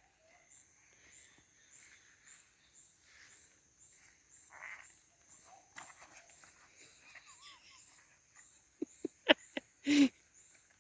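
Faint outdoor background with a high chirp repeating about two and a half times a second. Near the end a cattle dog gives a few short sharp yelps and then a louder bark.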